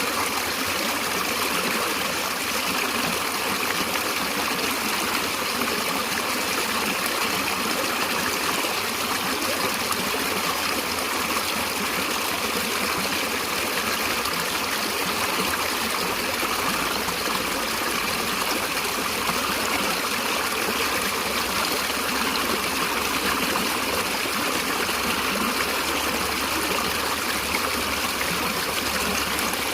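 Natural running water, such as a stream, flowing steadily with an even rushing and trickling.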